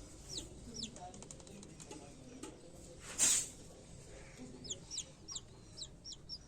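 A newly hatched chick peeping: repeated short, high notes that each fall in pitch, coming in clusters, with soft low clucking under them. A short, loud hiss of noise about three seconds in stands out above the rest.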